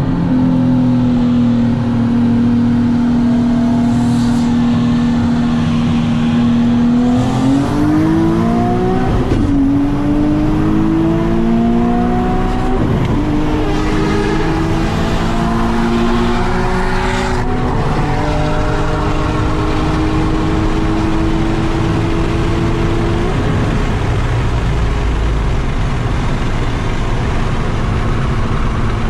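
Nissan 370Z's 3.7-litre V6 holding a steady rolling speed, then at full throttle, rising in pitch through several upshifts, before settling to a steady cruise again: a roll race.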